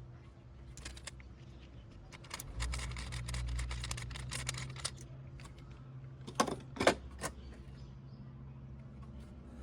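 Clicks and light metallic rattling, as of tools or small parts being handled, over a steady low hum; a busy run of rattling a couple of seconds in, then two sharp clicks about half a second apart.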